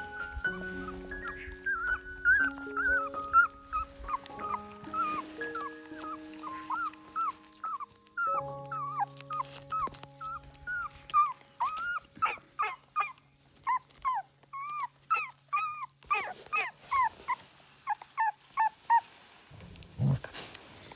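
Puppies whimpering in a long string of short, high cries that come thicker and faster in the second half. Gentle background music plays underneath, and there is a single low thump near the end.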